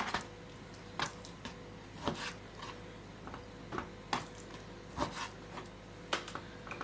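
Kitchen handling sounds: soft knocks and squishes about once a second as raw chicken breast chunks are dropped into glass canning jars, over a faint steady hum.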